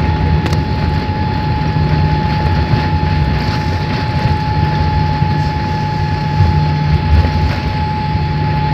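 Cabin noise inside a Boeing 787-8 airliner: a steady low rumble with a constant whine above it and a few faint knocks.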